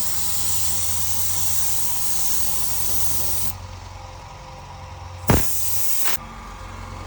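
Air spray gun hissing as clear coat is sprayed onto a car panel. The hiss cuts off about three and a half seconds in; a sudden loud burst follows near five seconds, then a second short spray of under a second. A steady low hum runs underneath.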